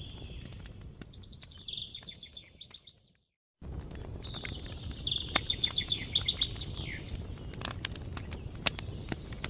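Campfire crackling with sharp clicks over a low rumble, while a songbird sings two trilled phrases of quick repeated notes, the first about a second in and the second near the middle. The sound cuts out to silence for about half a second around a third of the way through.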